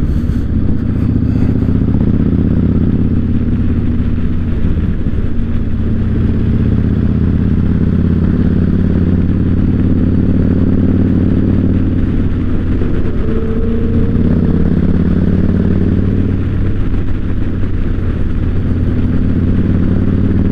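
2008 Yamaha Raider's 1854 cc air-cooled V-twin running steadily while the bike is ridden, its pitch shifting slightly a few times with the throttle.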